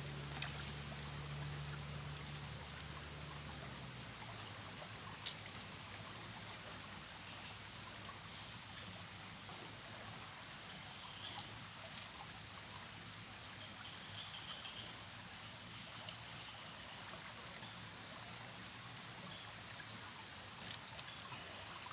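Steady high-pitched insect chirring over faint trickling water, with a few small clicks or splashes now and then. A low hum fades out a few seconds in.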